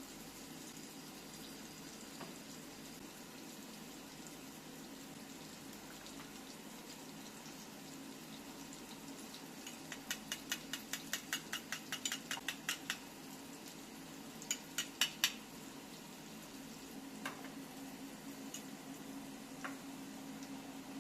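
Kitchen utensils clicking against dishes over a steady low hum: a quick run of taps, about six a second for some three seconds, then four louder taps a moment later and a couple of single ticks.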